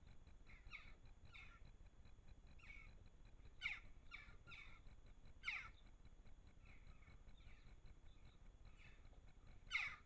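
Faint series of short, harsh bird calls, about a dozen brief downward-sliding notes, with three louder ones about three and a half seconds in, five and a half seconds in and near the end.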